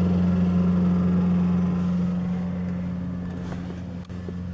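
Petrol lawn mower engine running at a steady pitch, growing gradually quieter over the last couple of seconds.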